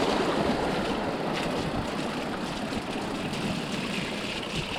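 Mountain bike rolling over a rough trail, picked up by a helmet-mounted GoPro: a steady rumble of tyres and wind buffeting that slowly fades.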